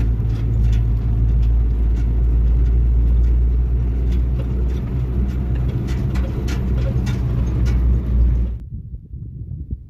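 Motor vehicle running along, a steady low engine and road rumble with scattered rattles and clicks. It cuts off sharply near the end, leaving only a faint low rumble.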